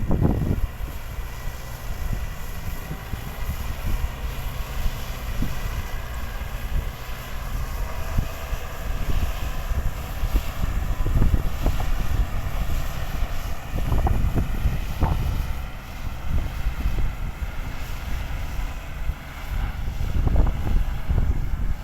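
Tractor engine running steadily, with a faint droning whine, while wind buffets the microphone in heavy low gusts.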